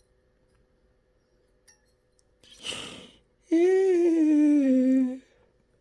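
A short breathy noise, then one drawn-out vocal sound lasting about a second and a half, its pitch sliding slowly down, over a faint steady electrical hum.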